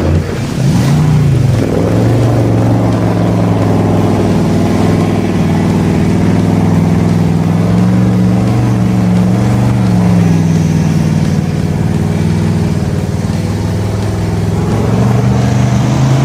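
A loud engine running at steady high revs, its pitch drifting up and down slightly.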